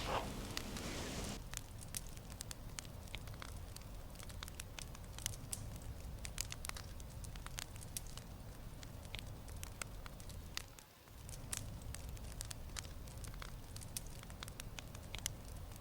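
Wood fire crackling, with irregular sharp pops and snaps over a low steady rumble. A brief louder sound with steady tones fades out in the first second and a half.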